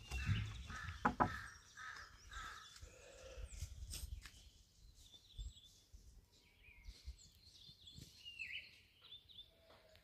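Birds chirping faintly in the open air, with short scattered calls that gather near the end. A low rumble with a couple of knocks sounds on the microphone in the first second or so.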